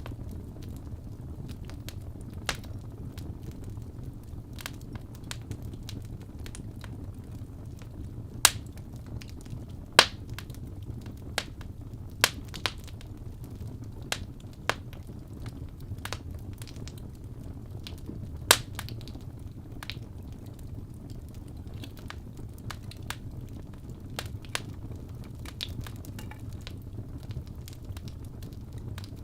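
Wood fire burning in a fireplace: a steady low rumble of flames under irregular crackles and sharp pops, with a handful of louder pops in the middle stretch.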